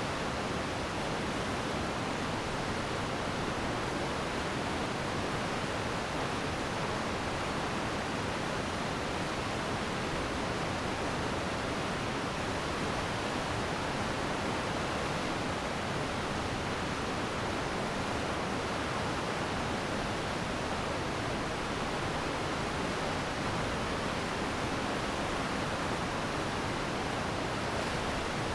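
Glacier meltwater stream rushing steadily, an even hiss of fast-flowing water with no breaks.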